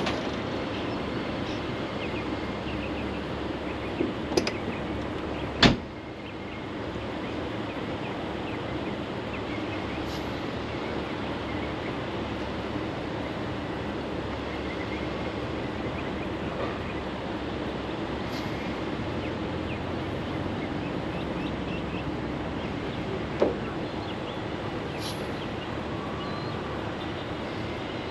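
Heavy diesel vehicle running steadily with a low drone. A few knocks are heard, with one sharp clack about six seconds in and another near the end.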